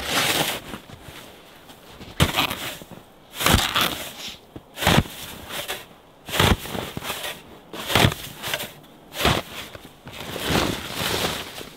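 Snow shovel scooping and scraping through deep snow, a crunching stroke about every second and a half, eight or so in all.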